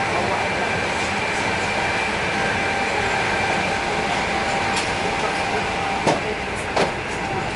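Steady running noise of a moving passenger train heard from inside the carriage, with two short knocks near the end.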